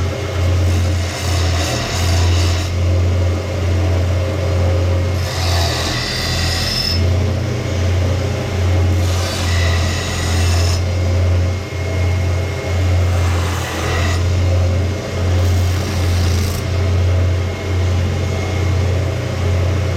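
Electric power sander running with a steady hum while steel is pressed to the abrasive in repeated passes: about five bursts of grinding hiss, each a second or two long, as an old axe head is reshaped and cleaned up.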